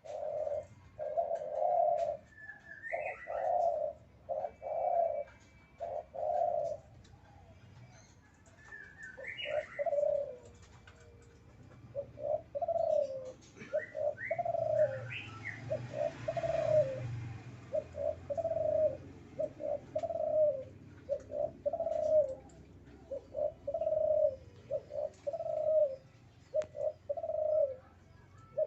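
Male spotted dove (derkuku) in breeding condition cooing over and over, short low notes repeated roughly once a second with brief pauses. A few short, higher chirps from another bird break in now and then.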